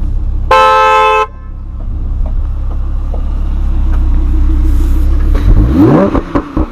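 Lamborghini Huracán V10 idling with a steady low rumble. A car horn sounds once, briefly, about half a second in, and near the end the engine is revved, its pitch rising quickly.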